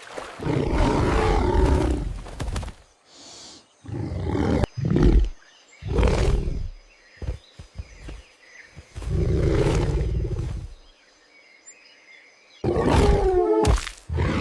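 Big cat roaring and growling in about five loud bouts a few seconds apart, each lasting one to two seconds.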